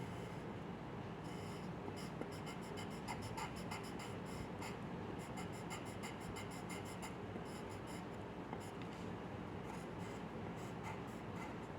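Drawing strokes on paper: quick runs of short scratches with brief pauses between them, over a steady low hum.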